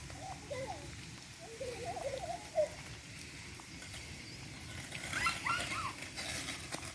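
A series of short animal calls rising and falling in pitch, a cluster in the first few seconds and higher-pitched ones about five seconds in, over a steady low rumble.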